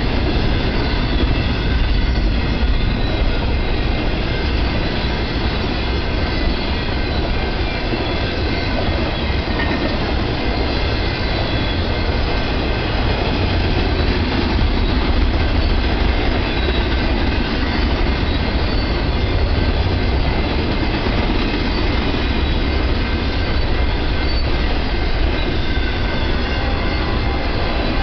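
BNSF intermodal freight train's well cars rolling past at speed: a steady, loud rumble of steel wheels on rail with some clickety-clack, and a faint thin wheel squeal above it.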